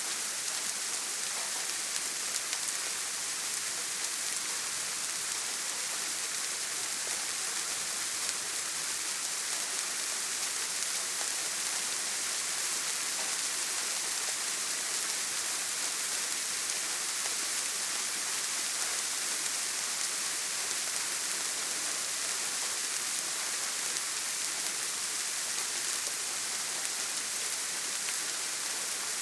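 Steady rain falling on a tin roof, an even hiss that does not change.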